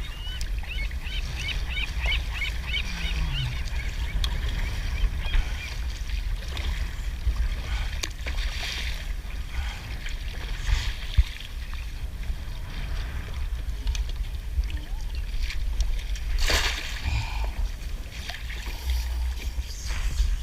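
Kayak paddle dipping and splashing through seawater, with a few louder splashes, over a steady low rumble.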